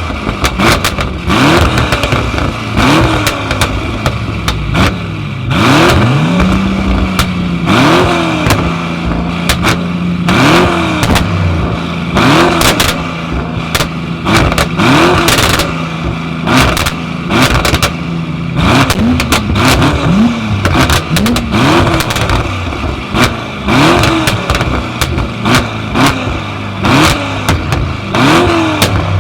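A tuned car engine revved hard in quick blips, about one a second, then held at steady high revs for about twelve seconds before blipping again. Many sharp cracks run through it.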